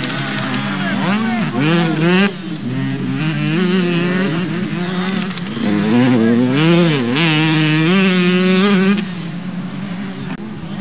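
Several motocross bike engines revving on the track, overlapping, their pitch repeatedly rising and falling as riders work the throttle. It is louder for a few seconds past the middle, then eases off.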